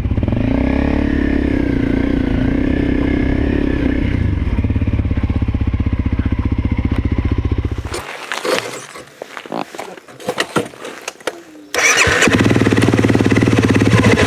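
Honda CRF250L's single-cylinder four-stroke engine running at low speed, with small rises and falls in pitch. It cuts out about eight seconds in, leaving a few seconds of scattered knocks and rustling, then runs again from about twelve seconds.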